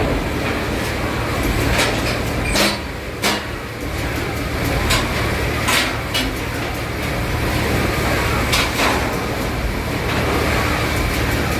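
Penn oscillating steam engine of a paddle steamer running: a steady low rumble with irregular sharp clicks and knocks from the moving parts.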